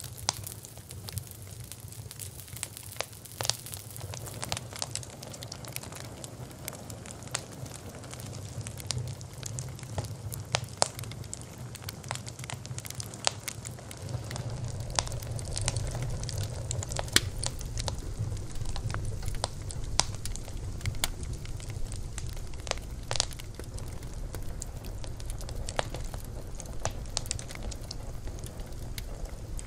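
Bonfire crackling, with frequent irregular sharp pops and snaps over a steady low rumble of the flames, which grows a little louder about halfway through.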